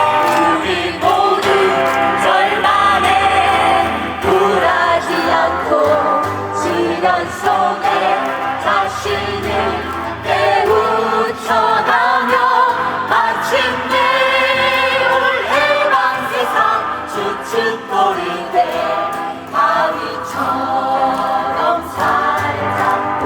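A group of singers singing a lively Korean protest song in chorus, with keyboard and guitar accompaniment.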